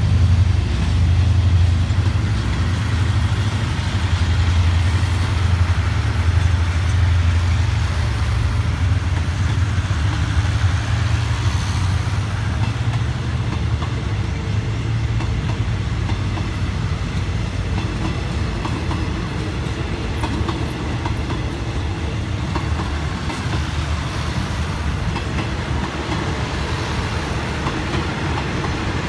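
Passenger coaches of a departing express train rolling past on the rails. A deep hum is strong for the first dozen seconds and then fades, leaving the steady rumble of the wheels.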